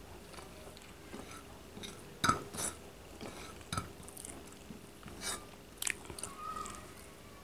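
Mouth sounds of a person chewing and eating chicken curry with rice, with scattered short, sharp clicks and smacks.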